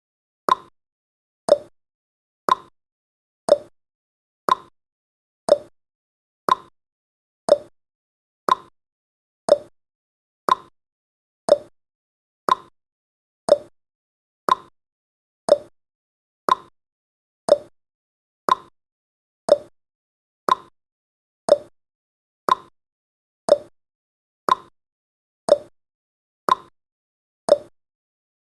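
Countdown timer's clock-tick sound effect: short, sharp ticks at a steady one per second.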